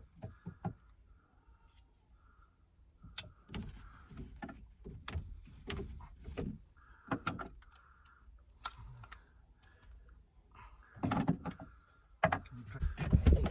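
Irregular clicks, knocks and clatter of hand work, with a louder run of knocking near the end.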